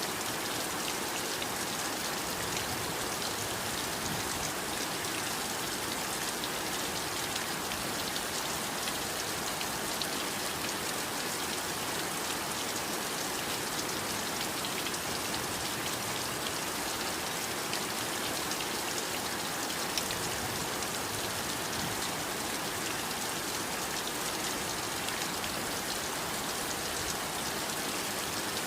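Steady heavy rain falling, an even hiss of rainfall with fine scattered drop patter and no change in intensity.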